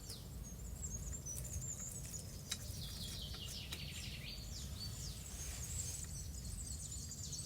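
Small birds chirping and twittering in quick, high, downward-sweeping notes, overlapping throughout, over a low steady rumble, with a few light clicks.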